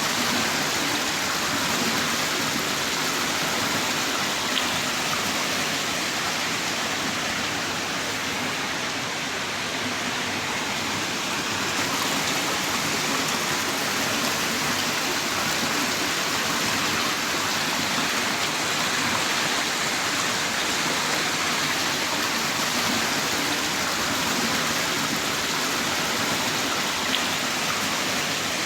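Heavy rain pouring steadily, a dense, even hiss of downpour with a few faint drop ticks.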